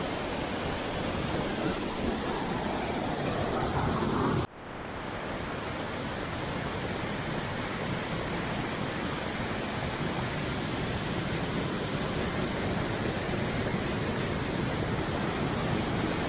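Waterfall: a steady rushing of falling water. It drops out abruptly for an instant about four and a half seconds in, then comes back unchanged.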